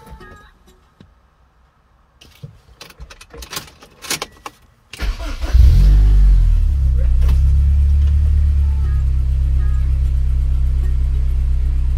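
A few light clicks, then about five seconds in the Honda S2000's F20C four-cylinder engine is cranked and catches, flaring briefly in revs before settling to a steady idle.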